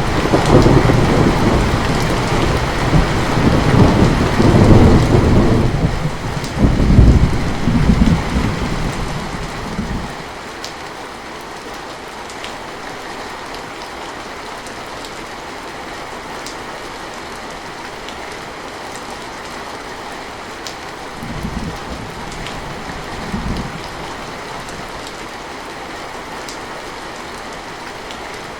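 Steady heavy rain with a long rolling thunder rumble that swells in several surges and then cuts off about ten seconds in. Two short low rumbles come near the end.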